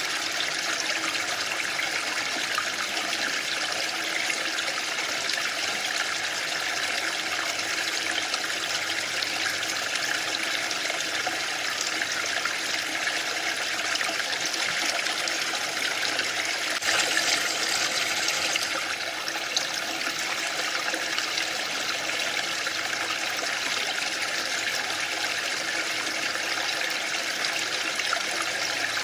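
A waterfall's falling water rushing steadily, swelling slightly for a couple of seconds about two-thirds of the way through.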